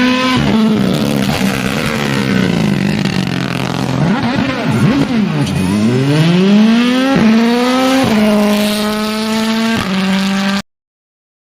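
Rally car engine at high revs, the pitch climbing and then dropping sharply at several gear changes, with a lift off the throttle and a long rising pull through the middle. The sound cuts off suddenly near the end.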